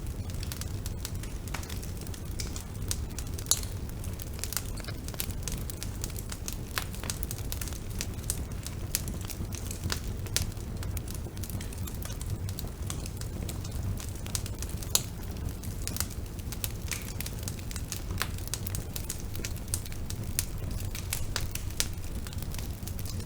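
Bonfire burning steadily: a low rumble of flame with irregular crackles and pops of burning wood, a couple of them sharper.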